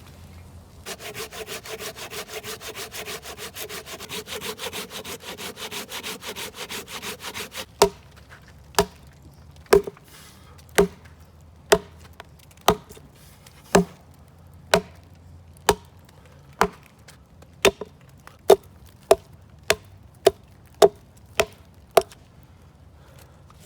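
A hand saw cutting through wood in fast, even strokes, then wood being chopped: about seventeen sharp blows, at first about one a second and coming quicker toward the end.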